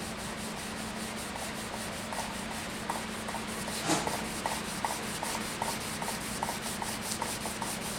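Wet sandpaper rubbing over a wooden stave drum shell in quick, even strokes, about five a second, during wet sanding between grits. A steady low hum runs underneath, and one stroke about four seconds in is louder.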